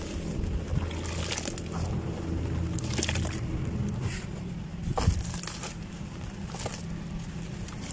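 Lumps of dry sand-cement crumbling, with a few crunchy crackles over a low rumble and a sharp snap about five seconds in.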